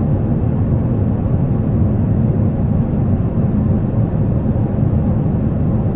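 Steady low roar of a jet airliner, even and unbroken, with no tones or pitch changes.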